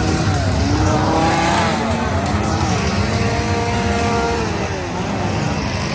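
Several engines revving up and down together over a steady low rumble.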